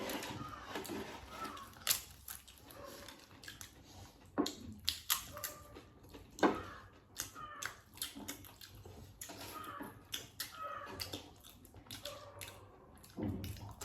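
Wet, close-up eating sounds of people chewing a meal: irregular mouth smacks and clicks, with no talking.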